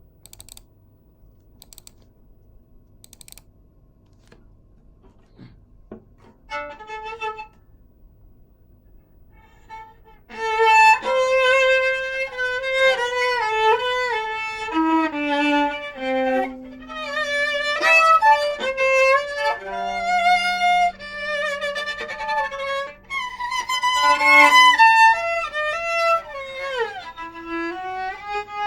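Viola played with the bow: a single short note about six seconds in, then from about ten seconds a melody of held notes with slides between some of them.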